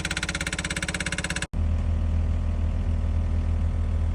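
Heavy diesel machinery on a digging site: a fast mechanical pulsing, about a dozen beats a second, cuts off abruptly about a second and a half in, and a steady low engine drone follows.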